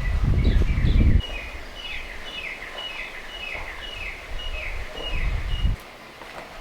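A bird singing a repeated series of short, falling whistled notes, about two a second, over a low rumble that drops away about a second in and returns briefly near the end.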